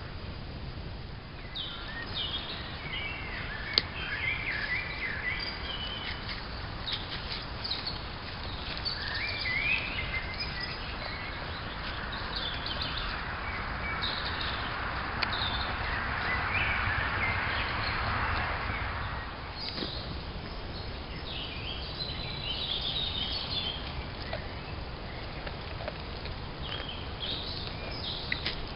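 Wild birds calling and chirping, many short high chirps scattered throughout over a steady outdoor hiss. A softer rushing noise swells from about twelve seconds in and fades about nineteen seconds in.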